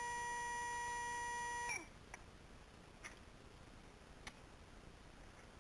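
Yeah Racing 13.5-turn sensored brushless RC motor whining steadily at full speed on a motor tester, about 28,700 rpm. Just under two seconds in it is cut off, and its pitch drops as it spins down. A few faint clicks follow.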